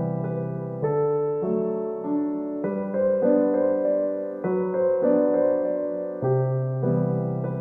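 Soft piano music: slow sustained chords and melody notes, each struck and left to ring and fade before the next.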